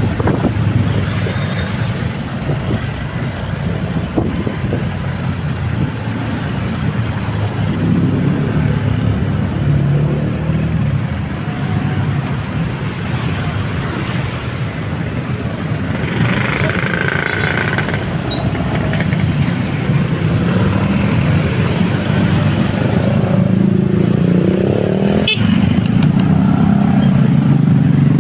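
Motorcycle engine running while riding amid road traffic, getting a little louder near the end.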